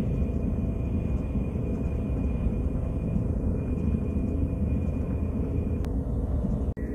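KTX high-speed train running at speed, heard from inside the passenger cabin: a steady low rumble with a faint steady high whine. A single click comes about six seconds in, and the sound cuts out for a moment near the end.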